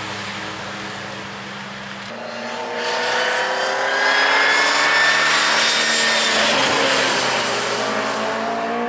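Austin Mini Cooper S Mk1's A-series four-cylinder engine accelerating on track, its note rising and growing louder, then dipping at an upshift about seven seconds in and climbing again. For about the first two seconds, a different race car's engine holds a steady note.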